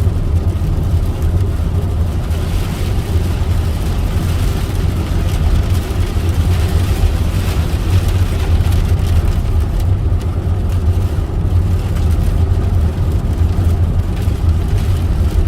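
Car driving through a heavy thunderstorm, heard from inside the cabin: a steady low road and engine rumble with a hiss of rain over it, the hiss swelling for several seconds a couple of seconds in.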